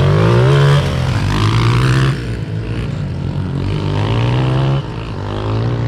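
Small four-stroke Honda dirt bikes, a CRF110 and a CRF230F, accelerating hard in a drag race. The engine pitch climbs and drops sharply at each upshift, about three times.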